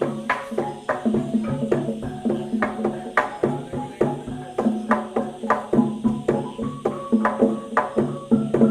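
Traditional Banyuwangi dance music from a percussion ensemble: struck pitched instruments and drums in a fast, steady rhythm.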